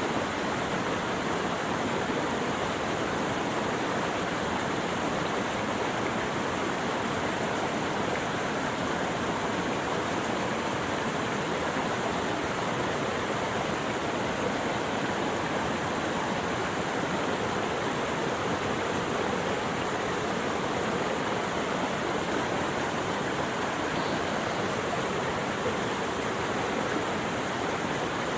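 Steady rushing of running water, an even unbroken wash of noise with no distinct splashes or pauses.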